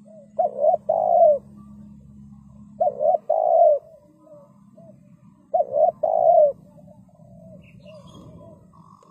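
Spotted dove cooing: three loud phrases a couple of seconds apart, each two short notes followed by a longer drawn-out one, with fainter coos in between.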